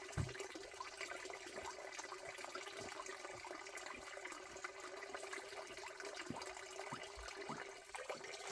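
Steady running-water noise with scattered small knocks and a faint steady hum.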